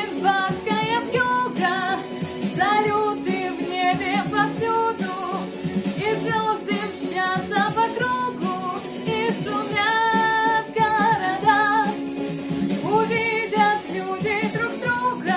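Pop song in its closing bars: a female voice carries the melody without clear words over a backing accompaniment.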